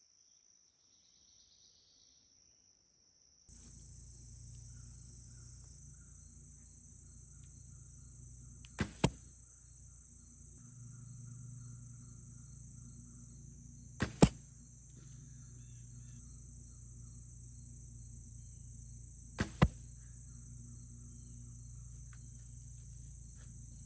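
Longbow shot three times, about five seconds apart: each shot a sharp double knock, the string's release followed a quarter second later by a louder smack of the arrow striking. Steady insect buzz runs behind.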